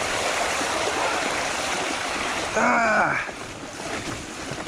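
Wind rushing over the helmet or handlebar microphone mixed with fat-bike tyres rolling down a muddy trail, a steady noise. About two and a half seconds in there is a short cry with a falling pitch.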